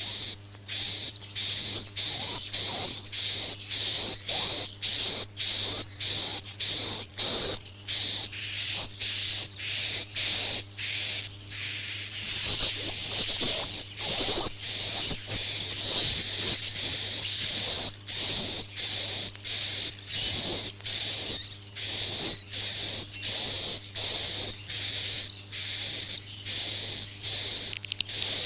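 Swiftlet call recording used as a 'suara inap' roosting lure for swiftlet houses: a dense, high-pitched twittering chirp, repeated in short segments with brief gaps, about two a second in the first half and longer stretches later. A steady low hum runs beneath.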